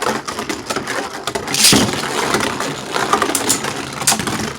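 Two Beyblade Burst spinning tops clashing in a plastic stadium: a fast, steady clicking rattle broken by sharp hits, the hardest about a second and a half in and again near the end.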